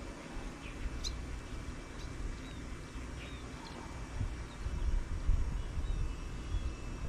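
Small birds giving scattered short chirps, over a low rumble with bumps that grow louder after about four seconds.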